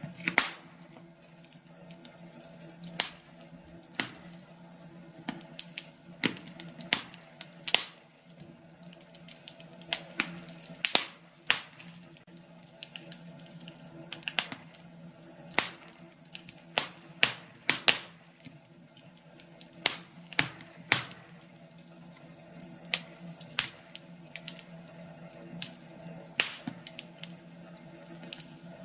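Wood fire burning in a fireplace, crackling with irregular sharp pops and snaps over a low steady hum.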